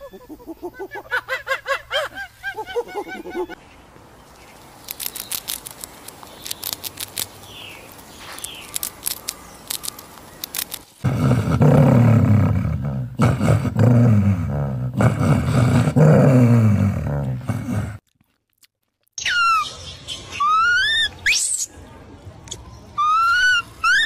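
A run of different animal calls in turn: short pitched calls, then scattered clicks, then a loud deep growling roar lasting about seven seconds. After a brief cut to silence come high squealing calls that sweep up and down.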